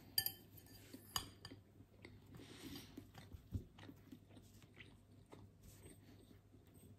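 Soft chewing of a mouthful of poke, with a few light clicks of a metal fork against a glass bowl, the clearest near the start and about a second in.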